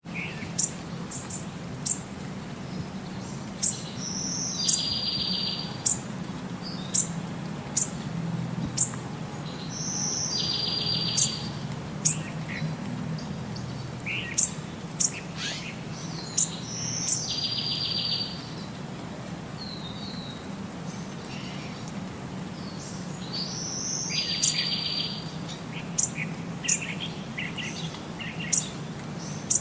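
Birds chirping: sharp high chirps throughout, with a short buzzy trill that recurs about every six and a half seconds, over a steady low hum.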